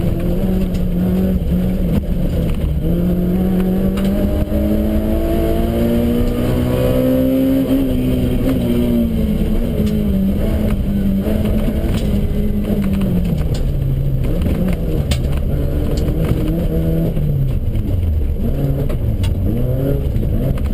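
Off-road competition car's engine heard from inside the cabin, revs climbing steadily for several seconds, then dropping and rising again repeatedly as it is driven hard, with scattered knocks and rattles.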